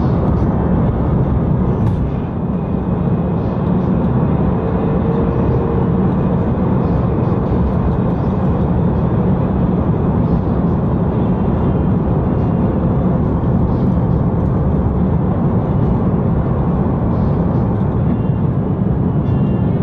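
Steady cabin noise inside an Airbus A330-300 on approach: a deep, even rumble of its Rolls-Royce Trent engines and the airflow over the fuselage, with a brief dip in level about two seconds in.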